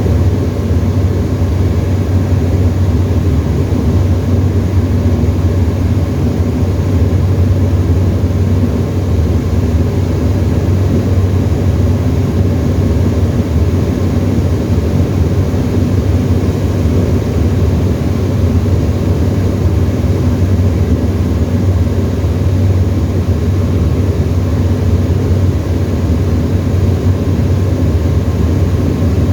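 Tecnam ultralight aeroplane's piston engine and propeller droning steadily in cruise, with no change in pitch.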